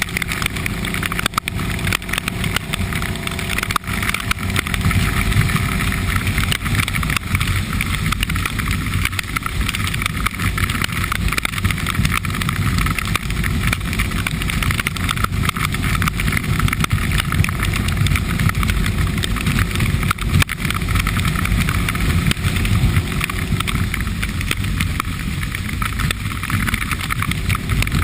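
Motorcycle engine running steadily while riding, with a low rumble under heavy wind and road noise on the microphone.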